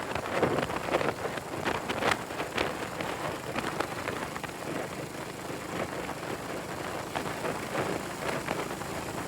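Classic motorcycle riding along, its engine low under heavy wind rushing and buffeting on the microphone in irregular gusts.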